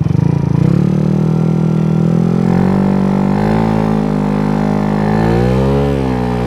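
Scooter's small single-cylinder four-stroke engine, bored out to 88cc, pulling away from idle and running up to a steady speed. Its pitch dips and climbs again near the end.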